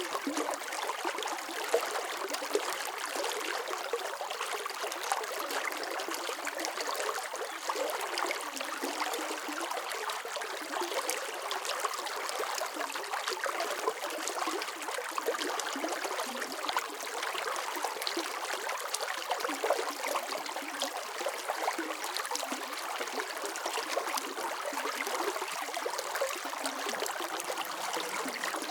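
Running water: a steady, continuous flow with fine splashing and trickling.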